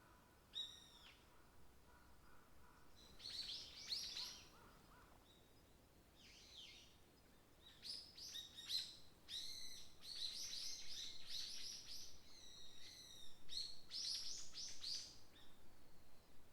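Small songbirds singing in a forest: a single call about half a second in, a short burst of song around four seconds, then a long run of quick, repeated falling notes from about eight seconds on.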